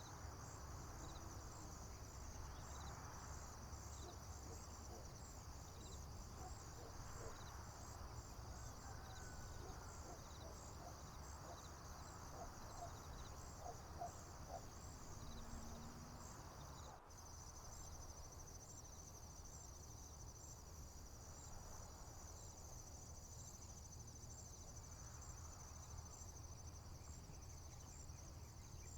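Crickets and other field insects chirping steadily in a high, pulsing chorus, with a few faint bird notes and a low background rumble. About 17 seconds in the chorus cuts off sharply and resumes at once with a different, faster pulse.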